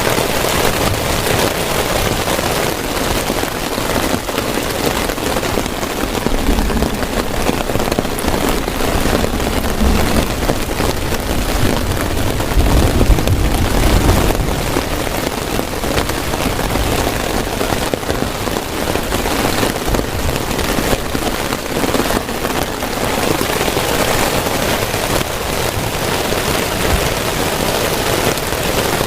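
Heavy rain falling steadily on a tent, a dense rapid patter of drops. A low rumble swells about halfway through.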